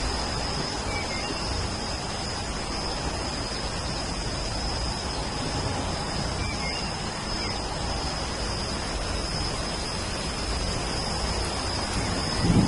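Steady rain hiss with a thin steady high tone over it. Faint short bird chirps come about a second in and again around six seconds.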